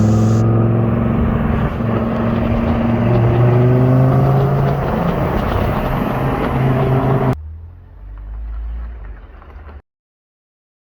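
Car engine running loudly with some revving, its pitch drifting up and down. About seven seconds in it cuts off abruptly to a quieter low rumble, which stops shortly before the end.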